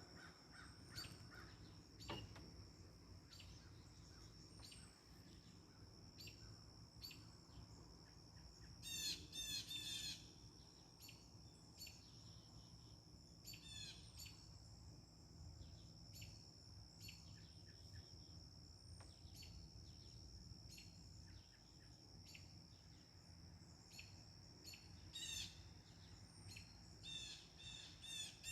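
Backyard birds chirping and calling, faint, with quick runs of chirps about nine seconds in, again around fourteen seconds and near the end.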